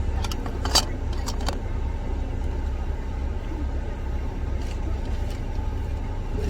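Car being driven in heavy rain, heard from inside the cabin: a steady low rumble of engine and road. A handful of sharp taps come in the first second and a half, the loudest just under a second in, and two fainter ones come later.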